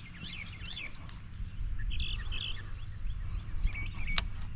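Small birds chirping intermittently over a steady low outdoor rumble, with a single sharp click a little after four seconds in.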